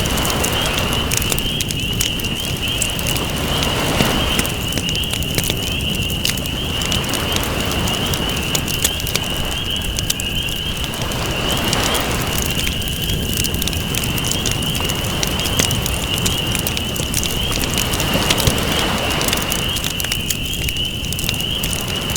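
Campfire crackling and popping, with waves washing in about every four seconds and a steady high-pitched tone.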